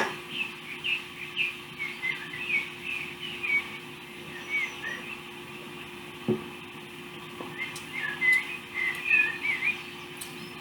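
Birds chirping in two bouts of quick, short chirps, over a steady low hum. A sharp click comes at the very start and a faint knock about six seconds in.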